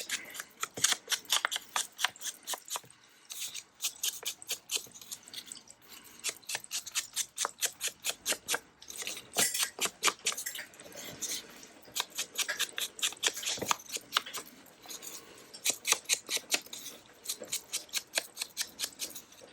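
Quick, repeated scratchy strokes of a hand tool against paper, several a second, in runs with short pauses.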